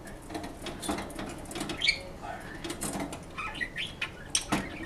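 Pet budgerigar moving about its cage: scattered small taps, scratches and rattles with a few short chirps, a louder knock near the end. The racket is the bird demanding to be let out of the cage.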